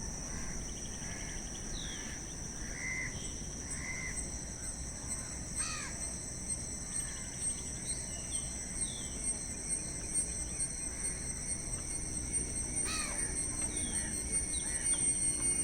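Crows cawing a few times over a steady high-pitched drone of insects, with a few small bird chirps early on.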